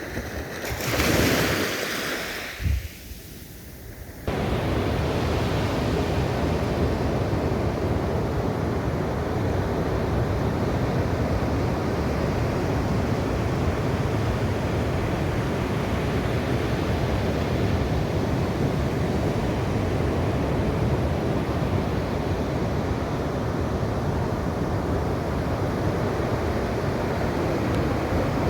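Ocean waves: one wave breaks about a second in and drains away, then the sound jumps suddenly to a steady, even wash of surf that holds unchanged.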